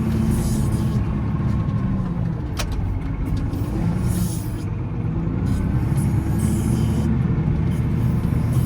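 Volvo L70C wheel loader's diesel engine running steadily while snowplowing, its pitch shifting a little with the load. There is a single sharp click about two and a half seconds in.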